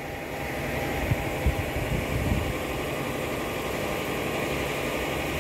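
Toyota Calya's 1.2-litre Dual VVT-i four-cylinder engine idling steadily with the bonnet open, its hum getting a little louder over the first second.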